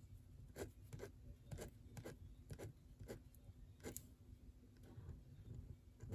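Faint, short strokes of a drawing tool on a surface as lines are drawn, coming irregularly about every half second to a second.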